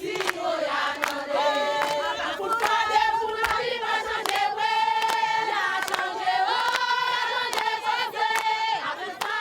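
A group of voices singing together in long held notes, crossed by sharp, fairly regular beats.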